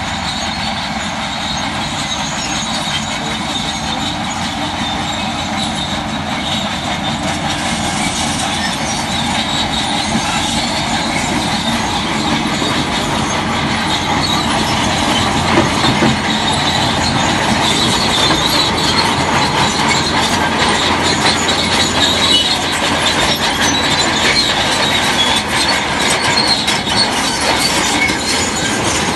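Crawler bulldozer working, its diesel engine running under load while the steel tracks clank and squeal, growing somewhat louder over the stretch.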